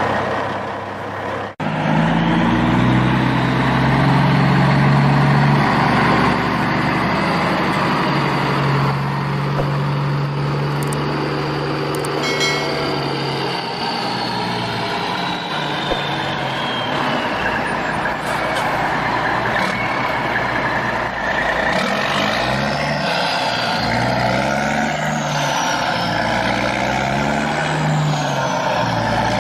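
Heavy truck engine running and revving, with rising and falling whines over a steady low drone. There is a brief cut-out about a second and a half in.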